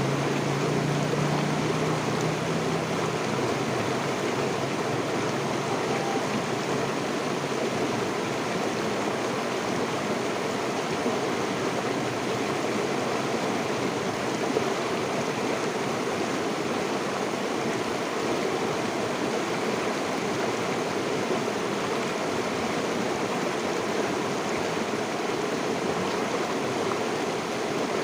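River water flowing steadily, an even rushing with no breaks. A low hum underneath fades out in the first few seconds.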